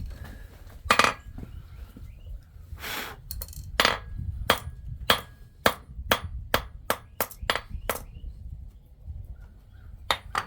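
Hand hammer striking silver on an anvil while forging a ring. The blows come about one every half second, quicken to three or four a second, then pause for about two seconds before two more quick blows near the end.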